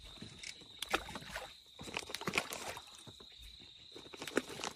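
A steady high-pitched insect trill, with scattered rustles and sharp knocks from handling gear or bait, the clearest about a second in, around two seconds in and near the end.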